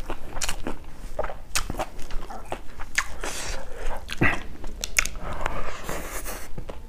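Close-miked eating sounds: a person chewing a mouthful of rice and herbs, with many wet mouth clicks and lip smacks scattered irregularly.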